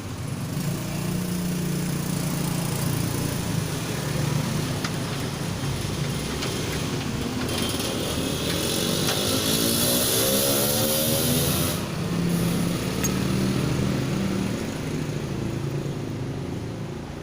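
Small engine running steadily, with a rising pitch and a rush of hiss about halfway through as it revs up, then settling back.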